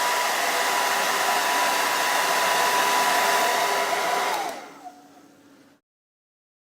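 Handheld hair dryer running on high, a steady rush of air with a motor whine. It is switched off about four and a half seconds in and its motor spins down.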